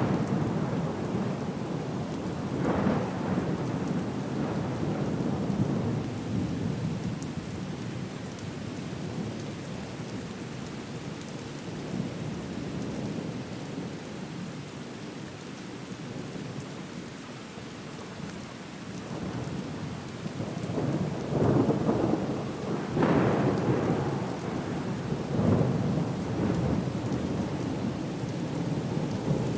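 A storm recording of steady rain with rolling thunder. It eases through the middle, then swells into several louder rumbles in the last third.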